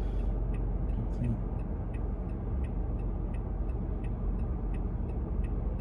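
Car idling at a standstill, a steady low rumble, with a turn signal ticking evenly about three times a second.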